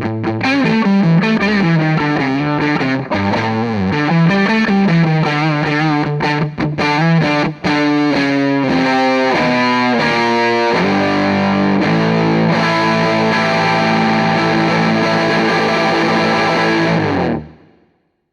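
Electric guitar played through an EarthQuaker Devices White Light hard-clipping overdrive pedal, with the comp switch in the minus position, into a Hughes & Kettner Tubemeister tube amp. It plays riffs, then a quick run of notes, then held notes ringing out, and stops abruptly near the end.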